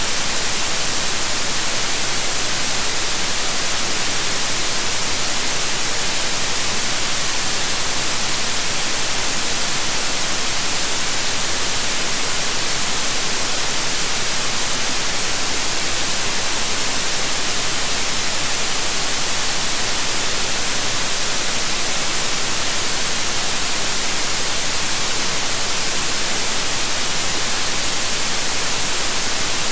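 Synthetic white noise: a steady, even hiss, strongest in the highs, with no change or events.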